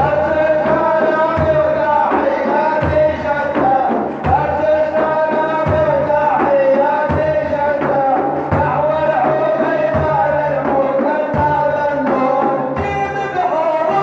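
Arabic religious praise singing (madih): a man's voice carrying a long, wavering melodic line over a deep, steady beat that falls about every second and a half.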